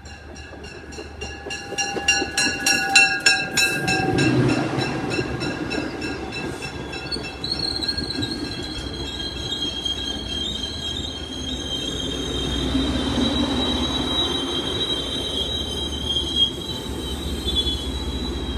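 An MBTA commuter rail train rolling into a station. Its wheels clatter in a regular rhythm for the first few seconds, then the wheels and brakes squeal in a steady high pitch as the train slows.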